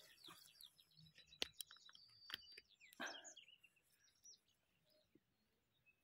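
Near silence: faint chirps of small songbirds, with a few soft clicks and a short rustle, as of a phone being handled.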